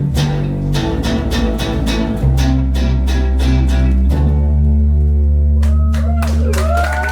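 Live rock band playing an instrumental passage: electric guitar and bass guitar over a steady drum beat. Near the end a long held note slides slowly in pitch above the band.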